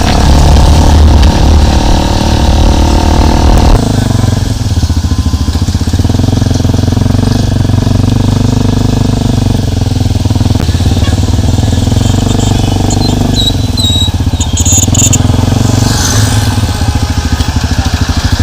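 Motorcycle engine running while riding along a road. Its sound changes abruptly about four seconds in.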